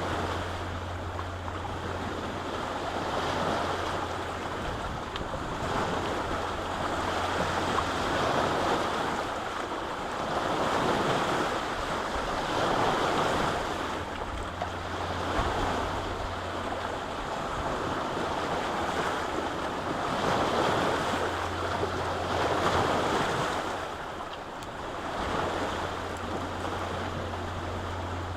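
Lake waves washing onto the shore, the rush swelling and easing every two to three seconds. A low steady hum lies underneath, dropping out for several seconds in the middle and coming back.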